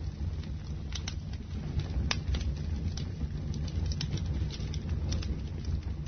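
Bonfire burning: a steady low rumble under scattered sharp crackles and pops of burning wood, the loudest pop about two seconds in.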